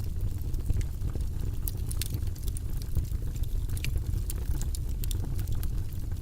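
Wood fire burning in a fireplace: a steady low rumble of flame with frequent sharp crackles and pops.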